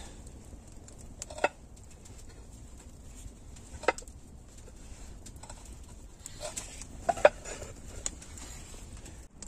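A few sharp cracks or knocks, spaced a few seconds apart, over faint steady background noise.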